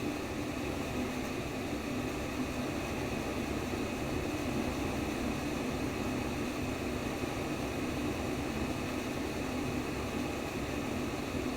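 Steady white noise for baby sleep: an even, unchanging rush with a low hum under it.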